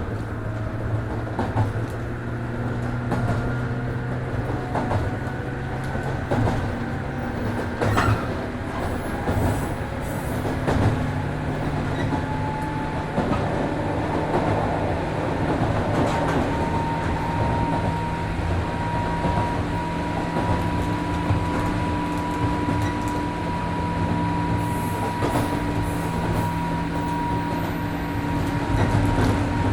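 103 series electric train running at speed, heard from inside the car: a steady hum of motors and gears whose pitches shift as speed changes, with a few knocks from the wheels over rail joints. From about halfway through, a higher tone rises slowly.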